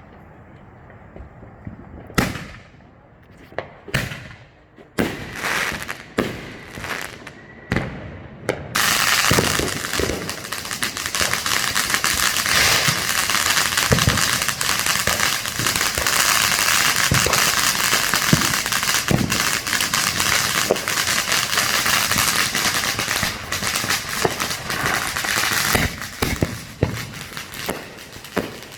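Consumer fireworks going off: a handful of separate sharp bangs, then about nine seconds in a dense, unbroken run of rapid cracking and popping that lasts some seventeen seconds before it thins back to scattered bangs near the end.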